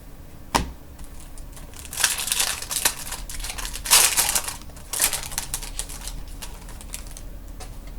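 Trading cards and a foil card-pack wrapper being handled: crinkling and rustling in short bursts, loudest about four seconds in, with a sharp click about half a second in.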